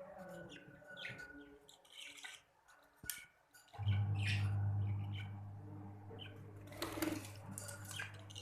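Budgerigars chirping in short, scattered calls. A steady low hum comes in about four seconds in.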